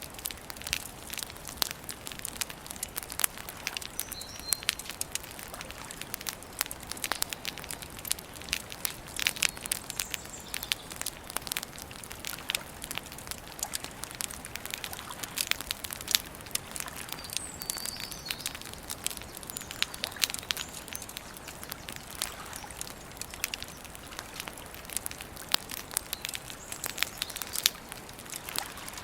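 Wood campfire crackling and popping continually in irregular snaps, with a few brief bird chirps in the background.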